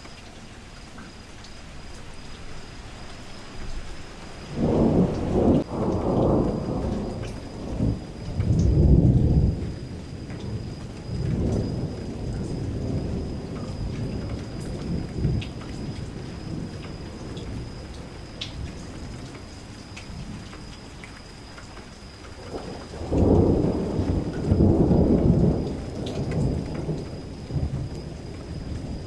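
Steady rain falling against a window, with two long low rolls of thunder: one starting about five seconds in and rumbling for several seconds, another near the end.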